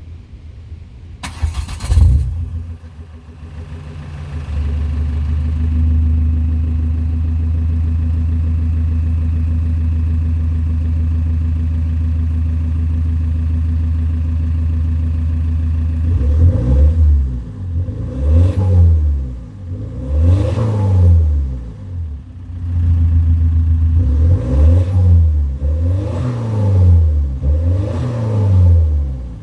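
Ford Kuga Mk1's 2.0 TDCi four-cylinder turbodiesel breathing through a homemade scrap-built exhaust. It starts about two seconds in and idles steadily. From about halfway on it is revved in short repeated blips, each rising and falling in pitch.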